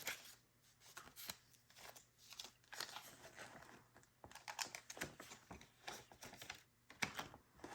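Faint rustling and light, irregular clicks of paper banknotes being gathered up and sorted by hand.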